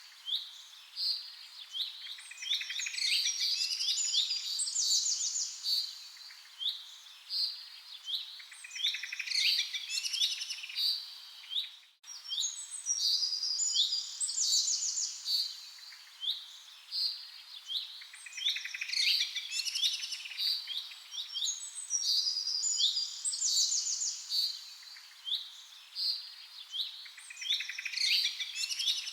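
Several small songbirds chirping and trilling over a faint hiss, calls tightly overlapping. It is a looped recording: there is a brief gap about twelve seconds in, after which the same passage of song repeats.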